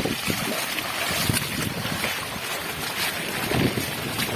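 Steady rushing noise of wind buffeting the microphone over floodwater, with a few faint low thumps.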